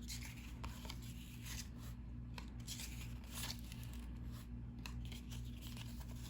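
Paper trading cards being handled and slid off a stack one by one, a string of short, soft swishes and rubs over a steady low hum.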